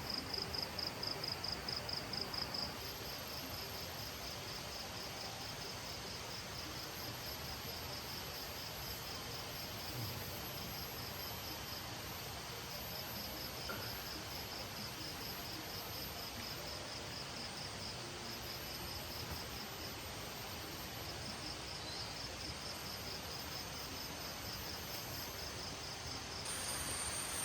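Crickets or similar night insects chirping in a rapid high-pitched pulsed trill, loudest in the first few seconds and then fainter and on and off, with a thin very high steady insect tone above it, over a steady background hiss.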